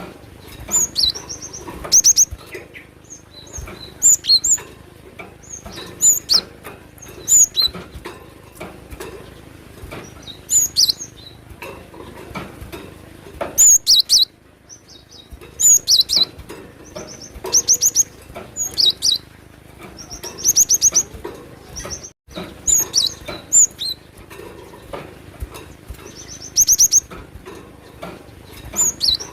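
Gelatik batu (cinereous tit) singing energetically: short, high, rapid phrases of repeated notes, one burst every second or two.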